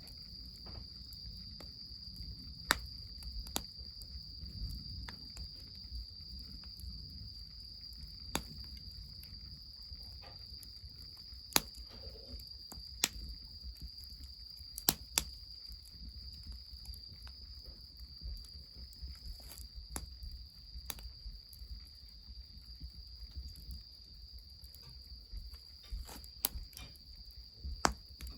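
Insects chirring in one steady high trill, with a wood fire crackling in sharp, scattered pops, about a dozen and a half of them, over a low steady rumble.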